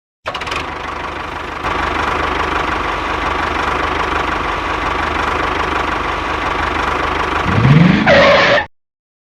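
A motor running steadily, getting louder about a second and a half in, with a rising pitch near the end before it cuts off abruptly.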